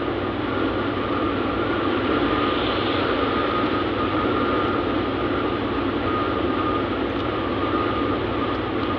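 Steady running noise of a truck on the road, engine and road noise together, with a faint high steady whine throughout.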